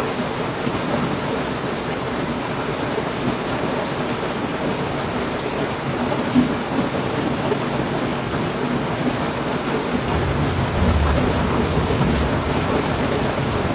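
Heavy rain falling steadily, with a low rumble of thunder coming in about ten seconds in.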